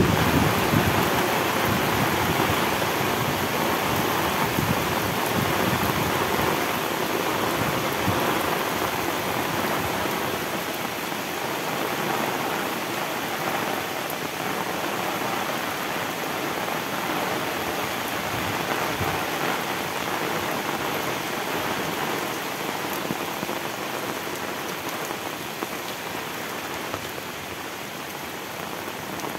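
Heavy tropical rain falling steadily, an even hiss of many drops, easing slightly in loudness over the stretch.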